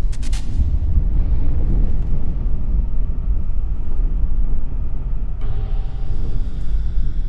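Four-stroke engine running with a steady low rumble. A few sharp clicks sound right at the start, and the tone changes about five and a half seconds in.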